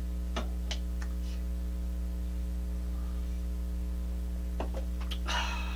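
Steady electrical mains hum on the recording, with a few faint clicks and a brief noisy sound near the end.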